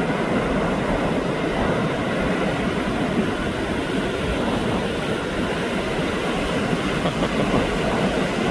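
Pacific Ocean surf: waves breaking continuously, a steady rushing noise with no pauses.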